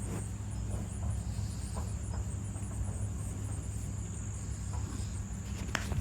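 A steady, high insect chorus: crickets trilling with a fast, even pulse. Under it runs a continuous low rumble, and a faint click or two comes near the end.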